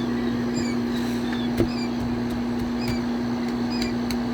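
A steady low mechanical hum, with short high chirps now and then and one sharp knock about a second and a half in.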